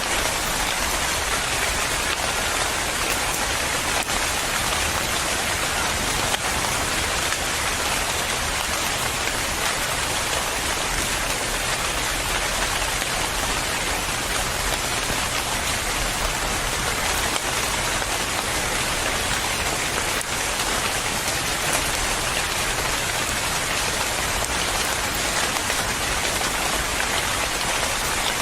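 Steady heavy rain falling and pattering on a surface.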